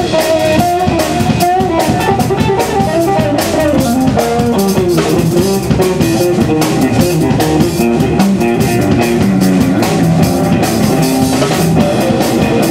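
Live blues band playing: a guitar carries a melodic line over a steady drum kit beat.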